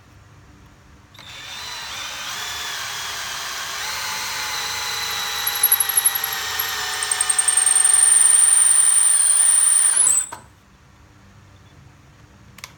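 Cordless drill (sold as a DeWALT DCD700) starting up about a second in and running steadily while boring into wood. It grows louder as it cuts deeper, a high squeal joins in for the last few seconds, and it stops abruptly near the end.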